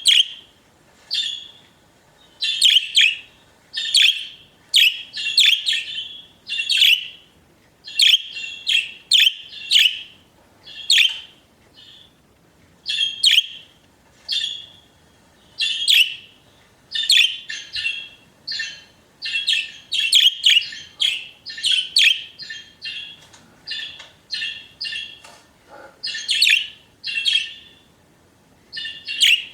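Pet budgerigars chirping and warbling, a stream of short, bright chirps in quick bursts with brief pauses between.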